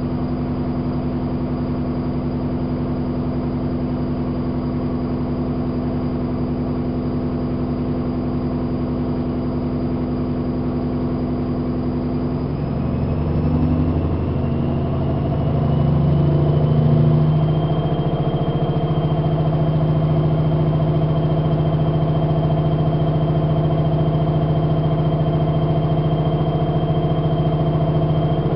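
AEG Lavamat 5210 washing machine spinning, its drum motor giving a steady hum. About halfway through the speed changes, and the machine settles to a new steady, louder pitch with a faint high whine that rises with it.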